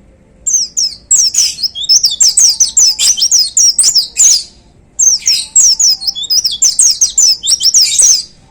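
White-eye (pleci) singing a loud, fast song of rapid high down-slurred notes, in two long runs with a short break in the middle.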